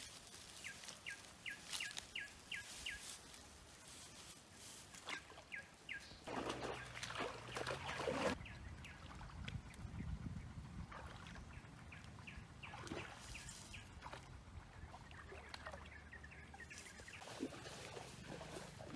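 A bird calling in runs of short, quick chirps, about three a second, over a steady rustling of grass and brush. A louder scuffle in the vegetation comes about six to eight seconds in.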